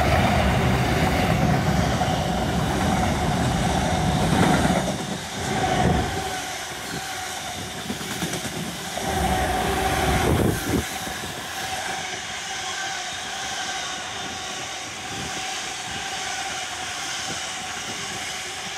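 Container wagons of a long intermodal freight train rolling past at close range: wheels rumbling and clattering on the rails, with repeated knocks as the bogies pass. A steady high whine runs under it. The rumble is loudest for the first five seconds, then settles quieter with a couple of brief louder surges.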